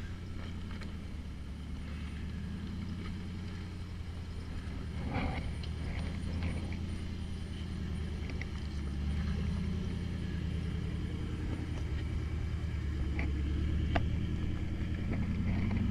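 LS V8 engine of a Jeep TJ crawler running low and steady at crawling pace, getting a little louder toward the end. A few sharp clicks and a brief scrape come through over it.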